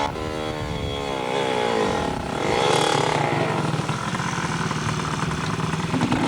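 Dirt bike engines running and revving, the pitch rising and falling several times as the throttle opens and closes.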